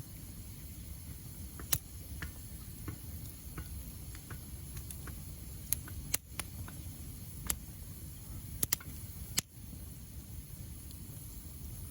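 Wood fire crackling: irregular sharp pops and snaps over a low steady rumble, the loudest pops about two seconds in and in a cluster from the middle to about three-quarters through.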